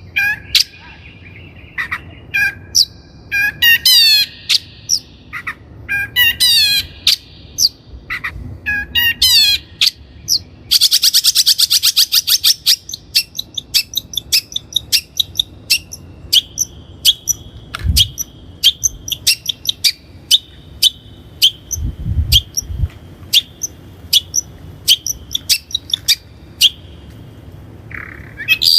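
Long-tailed shrike singing: a string of short calls and clusters of quick falling notes, then a fast, dense chatter about eleven seconds in, followed by a long run of short, clipped repeated notes.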